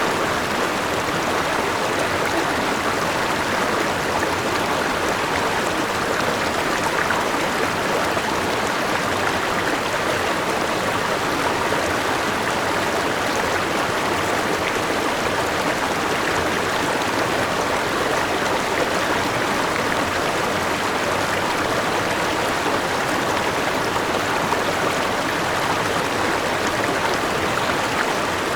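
A forest river rushing steadily over rocks and a small waterfall, an even, unbroken wash of flowing water.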